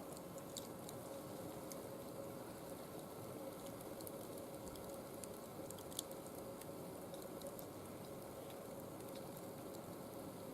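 Small wood fire burning in a barbecue grill, crackling quietly: scattered pops and snaps over a steady hiss, with one sharper pop about six seconds in.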